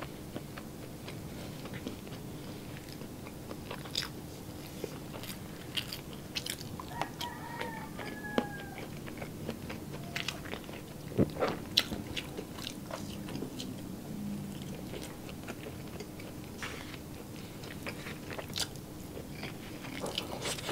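Close-miked chewing of a rice-and-meat breakfast eaten by hand, with many short wet mouth clicks and smacks.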